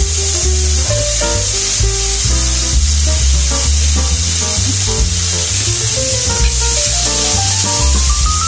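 Carrot and potato chunks sizzling as they fry in oil in a pan, stirred with a metal spatula near the end, over background music with a melody and a bass line.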